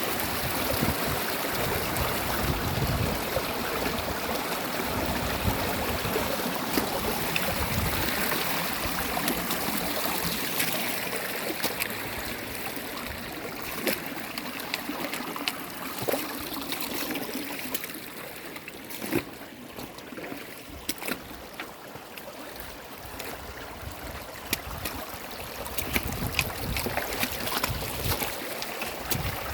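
Running water in a stream, splashing and trickling steadily, with many small sharp splashes and drips through it; it grows a little quieter past the middle and picks up again near the end.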